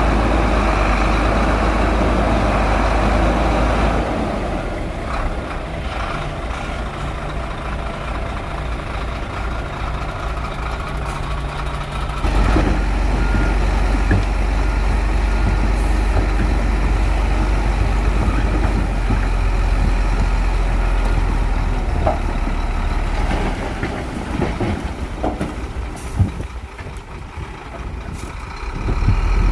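Heavy diesel engine of a working bulldozer running under varying load, quieter about four seconds in and loud again about twelve seconds in, with a reversing alarm beeping briefly in the middle.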